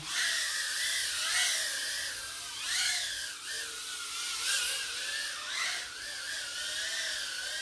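Mobula 6 tiny whoop's four 19000kv brushless motors whining in flight, the pitch rising and falling as the throttle changes, with a few quick upward swoops.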